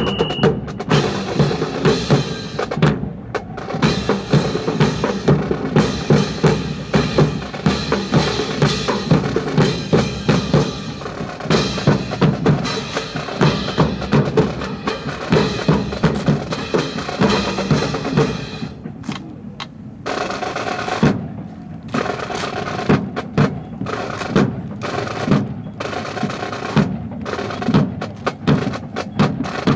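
Marching percussion playing a drill cadence on snare and bass drums, with drum rolls; a whistle blast ends right at the start. About 19 s in the dense drumming drops away to sparser, sharp rhythmic strokes with short gaps.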